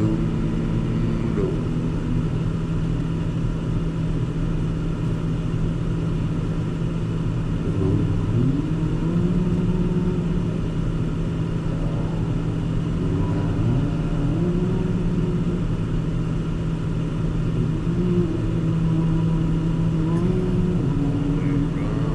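Car engine and road noise heard from inside the cabin while driving, a steady low hum. The engine pitch rises and levels off three times as the car accelerates.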